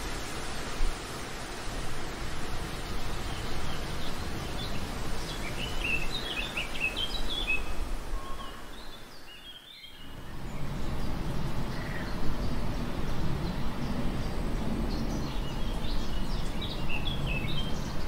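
Outdoor nature ambience: small birds chirping in two spells of quick, high twittering phrases over a steady rushing noise, which dips briefly about halfway through.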